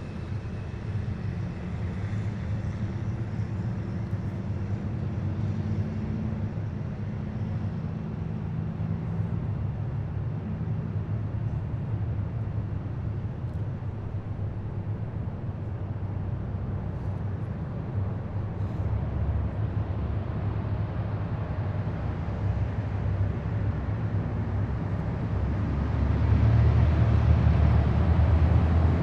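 Heavy military vehicles' engines running as they drive past in a column, a steady low rumble. It grows louder about 26 seconds in as a vehicle comes close.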